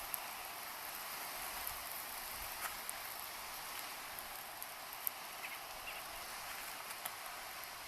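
Campfire cooking: a steady hiss with scattered small pops and crackles, as from burning wood and food sizzling over the fire.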